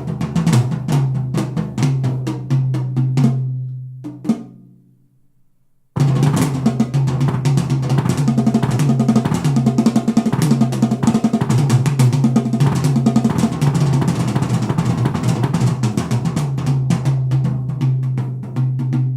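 Drum-heavy music with a strong bass line played through a Canton Plus S two-way mini speaker. One track fades out about four seconds in, and after a brief near-silence the next starts abruptly about six seconds in with dense drumming.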